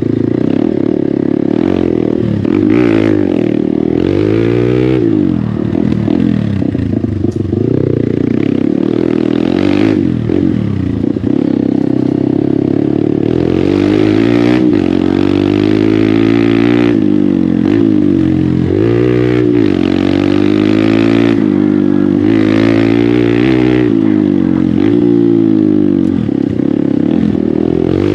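Hero Xpulse 200's single-cylinder engine breathing through an aftermarket MW Performance exhaust, loud and revving, its pitch rising and falling again and again as the bike is ridden.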